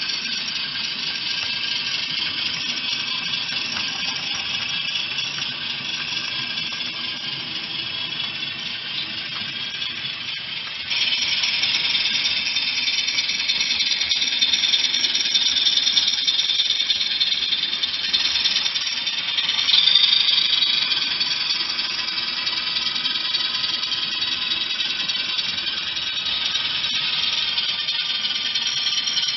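HO scale ALCO RS3 model diesel locomotive running along the track: a high, tinny whine with a rattle, jumping louder suddenly about a third of the way through.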